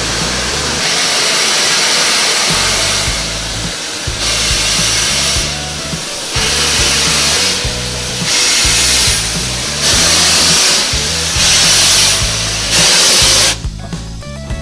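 Steam locomotive working, with a series of loud, hissing steam blasts, each about a second long, that get louder and come closer together, then cut off suddenly near the end. Background music with a bass line plays underneath.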